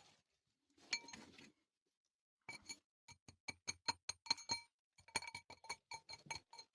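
A brief rustle about a second in, then a small hard object clinking over and over with a short bright ring, irregularly at about three to four taps a second, each tap ringing at the same pitches.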